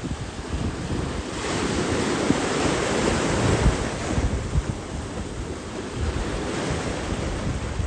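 Ocean surf rushing, swelling for a few seconds about a second in, with wind buffeting the microphone in irregular low gusts.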